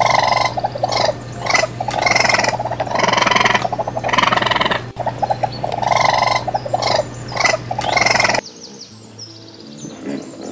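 Raccoon chittering in a run of fluttering, trill-like bursts, each half a second to a second long, over a steady low hum. Near the end these stop and faint bird chirps are heard.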